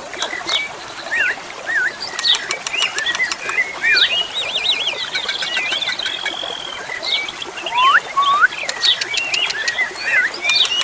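Asian pied starling (jalak suren) singing: a varied, continuous run of whistled glides and looping notes mixed with rapid clicking rattles.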